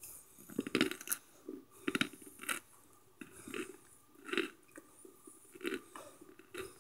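Chunks of microwaved cornstarch being chewed: a slow series of dry, crackly crunches, about one a second.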